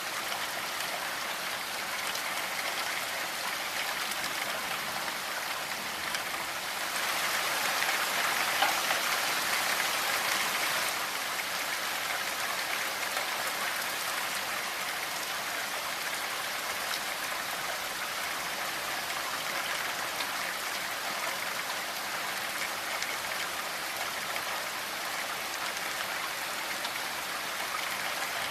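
Steady rainfall, a dense even patter of drops, growing heavier for a few seconds from about seven seconds in before settling back.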